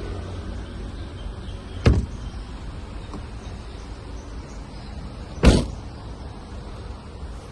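Two car doors of a 2016 Hyundai Tucson shutting, one about two seconds in and a louder one about five and a half seconds in, over a steady low rumble.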